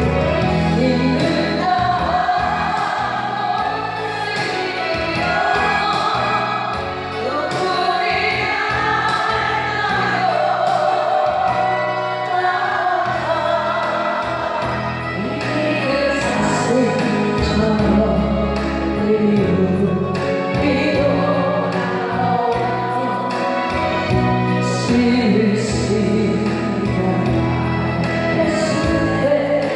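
Music: a Korean ballad sung with instrumental backing, the voice carrying a slow melody throughout.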